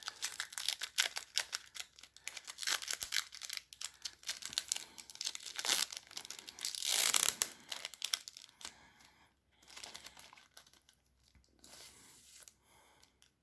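Trading card pack wrapper being torn open and crinkled, a dense crackling rustle that thins out about two thirds of the way in to a few faint rustles.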